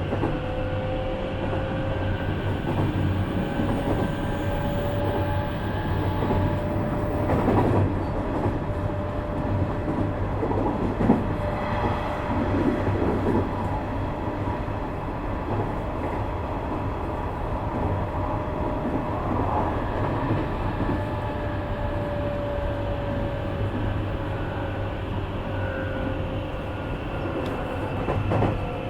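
Nishitetsu 3000 series electric train heard from inside a passenger car while running: steady running noise with a whine from the traction motors, and a couple of louder knocks from the wheels and track. The whine drops in pitch in the last few seconds.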